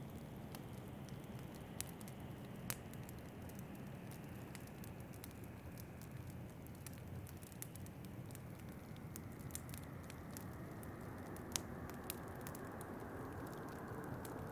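Fireplace crackling with scattered sharp pops, a couple of them louder, over a steady rush of wind.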